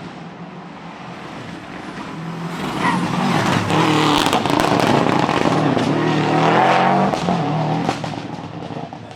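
Subaru Legacy rally car's flat-four boxer engine approaching and passing at full stage speed: the engine note grows from about two seconds in, rises and falls through the loudest stretch, and fades near the end, with sharp cracks scattered through the pass.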